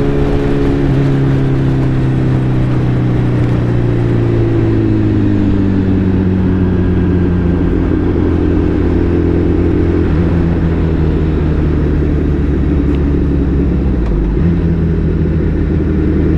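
Suzuki Hayabusa's inline-four engine heard from the rider's mic while riding, over a steady rush of wind and road noise. The engine note falls slowly over the first several seconds as the bike slows in traffic, holds steady at low revs, and steps up slightly near the end.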